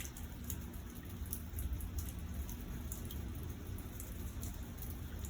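Rain falling during a thunderstorm, with scattered drops landing close by as irregular sharp ticks over a steady low rumble.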